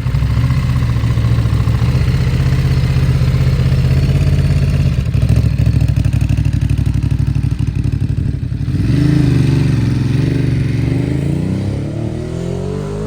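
Ducati Monster's V-twin engine through a Termignoni exhaust, running loud at idle with a steady pulsing beat, revving about nine seconds in, then pulling away, its pitch climbing as it grows fainter near the end.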